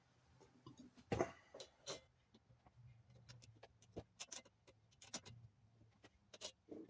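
Faint, scattered light clicks and taps of small metal parts and hand tools being handled during fork reassembly, over a low hum.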